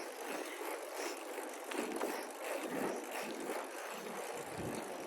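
Steady rushing noise of a bicycle ride: tyres rolling on pavement and wind on the microphone.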